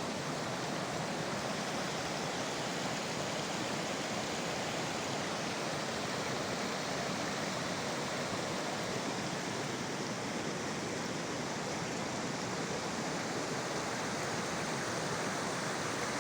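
Steady rushing of fast-running water, a stream or waterfall of snowmelt, unchanging throughout.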